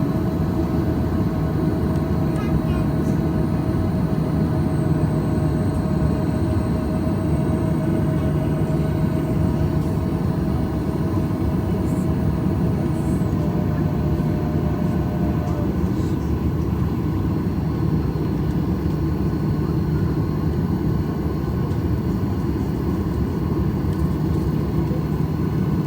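Steady drone inside the cabin of a Boeing 737-800 on the ground, its CFM56 engines running at low power, with a constant low hum. A faint, steady tone in the drone stops about fifteen seconds in.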